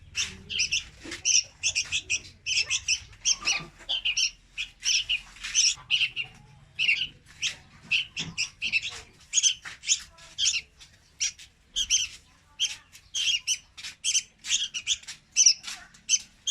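Young red-whiskered bulbul calling: short, high calls repeated quickly, about two to three a second, without a break.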